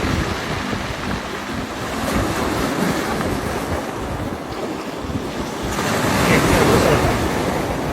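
Ocean surf breaking on the shore, with wind buffeting the microphone; a wave swells loudest about six to seven seconds in.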